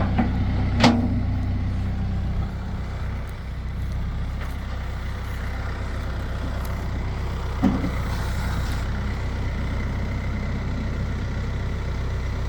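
A vehicle engine idling with a steady low hum, with a short sharp knock about a second in and another about eight seconds in.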